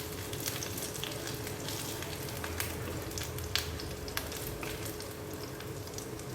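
Marinated chicken pieces frying in hot oil: a steady sizzle with scattered crackles and pops.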